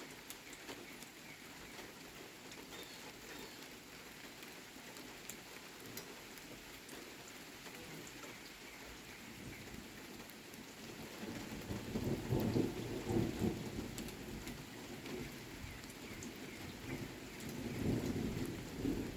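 Thunderstorm: steady rain with a roll of thunder that builds about two-thirds of the way in, rumbles for a few seconds, and swells again near the end. Faint bird calls sound over the rain.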